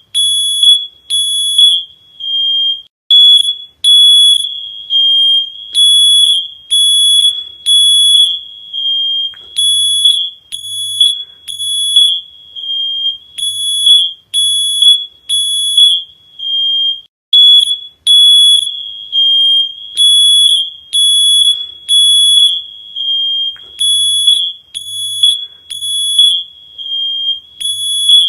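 Smoke alarm beeping: one shrill high-pitched tone in short, uneven pulses, about one or two a second.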